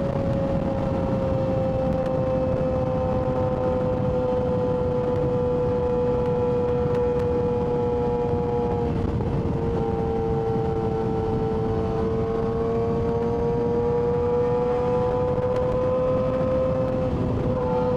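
Yamaha R6's inline-four engine running steadily with a prominent whine. The pitch drifts slowly lower, dips briefly about halfway, then rises gradually again.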